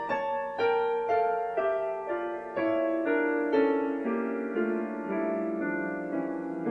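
Background music: a slow piano passage from a ballad, notes struck about twice a second, with no singing.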